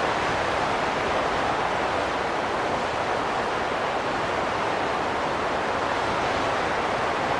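Wind blowing steadily: an even, unbroken hiss strongest in the middle range, with no gusts, whistles or breaks.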